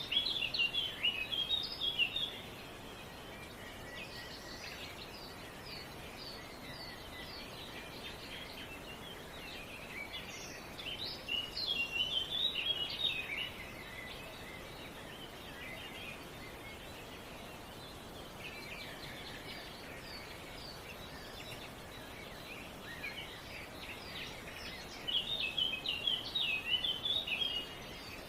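Songbird singing in three bursts of quick, high chirps, each lasting two to three seconds, over a steady background hiss.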